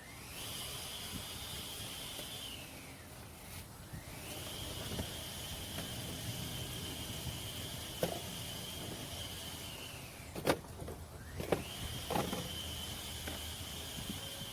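A small electric motor whines as it spins up, runs steadily and winds down, three times over, with a few sharp clicks between the runs.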